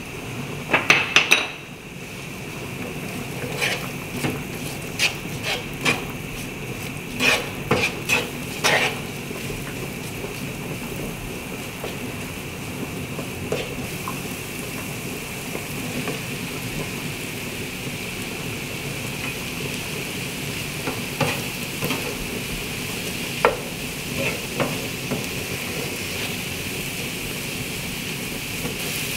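Diced onions, later joined by sliced mushrooms, sizzling in butter in a nonstick frying pan. A wooden spatula stirs and scrapes them, with clusters of sharp taps against the pan in the first nine seconds and a few more past twenty seconds.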